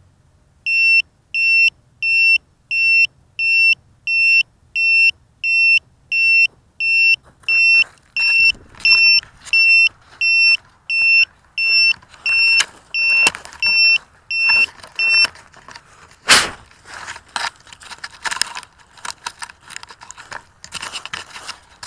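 Electronic buzzer beeping, a single high tone repeated evenly about one and a half to two times a second for some fifteen seconds, of the kind a racing quad gives off while disarmed or as a lost-model alarm. It stops, followed by a sharp knock and irregular crackling, rustling handling noises.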